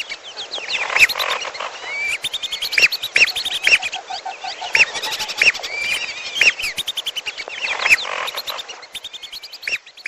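Bird-lure recording of whistling duck calls mixed with another bird's calls: many short, high whistled notes repeated over and over, with fast chattering between them.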